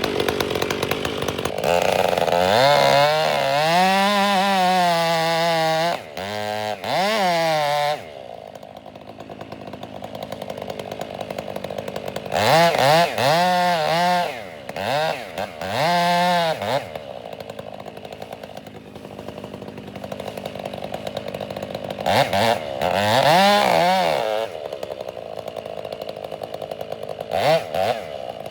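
Two-stroke chainsaw cutting in several full-throttle bursts, its pitch wavering up and down, dropping back to idle between them.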